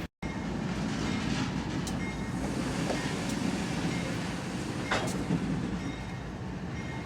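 Freight train rolling past, with a steady rumble of wheels on rail and a couple of sharp clacks.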